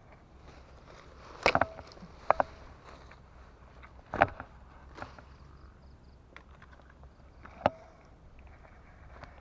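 About five sharp knocks spread over several seconds, some leaving a brief ringing tone, over a faint steady background.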